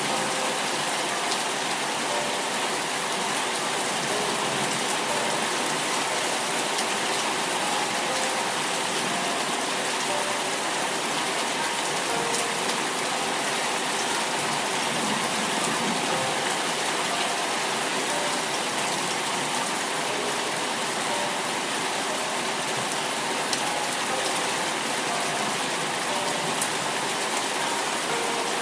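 Steady rain falling on a surface, an even hiss with scattered drop ticks and a couple of sharper taps near the end.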